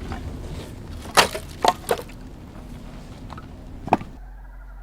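Axe splitting firewood: a sharp crack of the blade into a log about a second in, two quicker knocks of wood just after, and another strike near the end.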